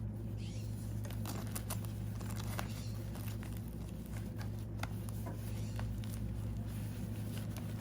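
Rustling and scattered light clicks and knocks of a portable air compressor and its accessories being handled and packed into a fabric carrying bag, over a steady low hum.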